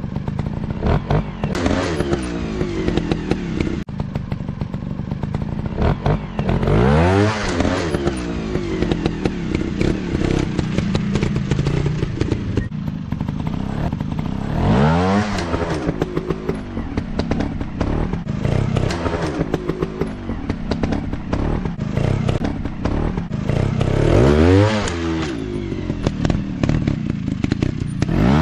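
Dirt bike engine riding off-road, revving up hard three times, about eight seconds apart, each rev climbing in pitch and then dropping back. Constant clattering and knocking runs underneath.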